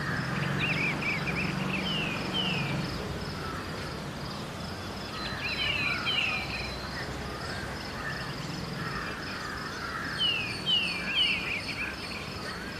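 Early-morning city ambience: songbirds chirping in short clusters of quick descending notes, over a steady high insect trill and a low hum of distant traffic.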